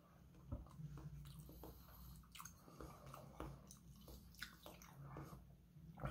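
Quiet close-up chewing of a mouthful of sashimi: faint, irregular wet mouth clicks and smacks.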